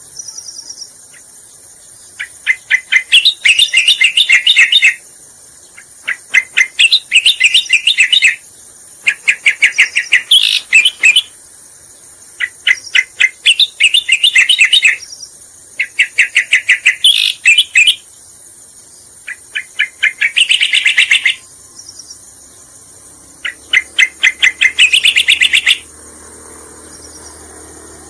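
Cica koreng song played as a lure call: phrases of rapid chattering notes, each a second or two long, repeated about every three seconds, over a steady high-pitched hiss.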